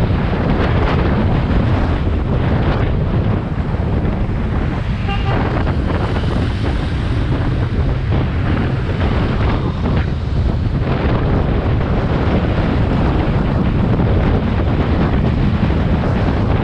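Wind buffeting the microphone on a moving motorcycle, with engine and road noise underneath. A short pitched tone sounds briefly about five seconds in.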